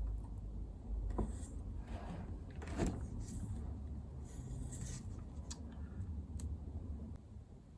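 Light clicks, taps and rustling scrapes of small tools, wire and model railway track being handled on a workbench during soldering. Under them runs a steady low hum that stops near the end.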